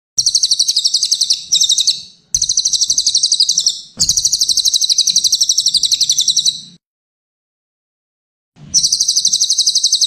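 Cililin bird singing in rapid, high-pitched trills of about ten notes a second. Four phrases of under one to nearly three seconds come back to back, then after a pause of about two seconds another trill begins near the end.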